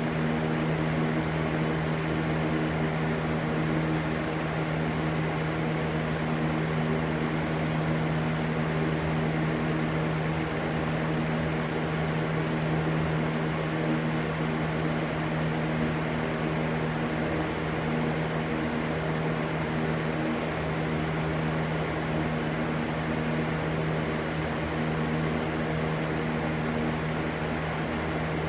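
Steady, unchanging rushing white noise with a constant low hum running through it.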